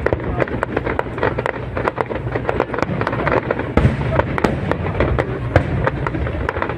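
Aerial fireworks going off in a dense barrage: many rapid sharp cracks and bangs over a continuous low rumble of bursting shells.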